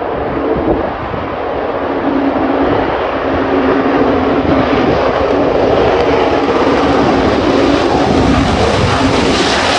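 Jet aircraft engine noise, loud and steady with a low droning tone, growing louder over the first few seconds.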